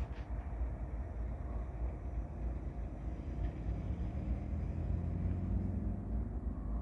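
Low, steady rumble of a distant diesel freight locomotive approaching, its engine note growing slightly stronger past the middle.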